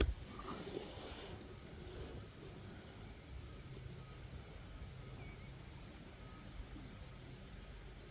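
Insects chirring in one steady, unbroken high drone, with a low rumble underneath.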